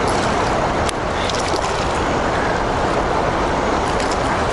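Steady rushing of river current, loud and even, with a few faint clicks about a second in.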